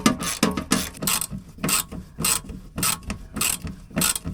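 Ratchet wrench clicking in repeated short strokes, about two a second, working a bolt loose.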